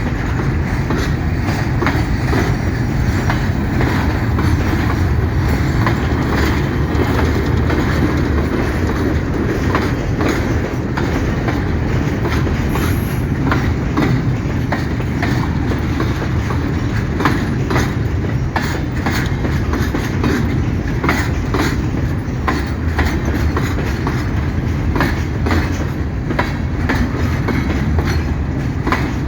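A long freight train of empty mineral hopper wagons rolling past, with a steady low rumble and frequent wheel clacks over the rail joints.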